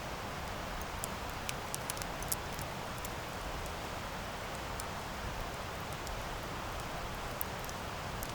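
Wood campfire burning: a steady low rushing hiss of the flames with scattered sharp crackles and pops from the burning wood.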